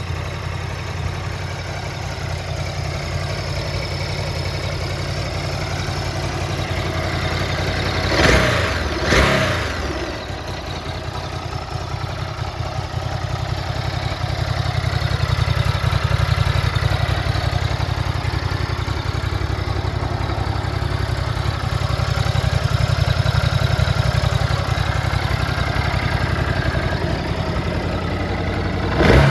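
Ducati Multistrada 950 S's 937 cc Testastretta L-twin idling steadily, blipped twice in quick succession about eight seconds in, each rev rising and falling back to idle.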